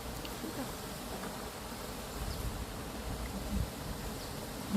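Insect buzzing, low and steady.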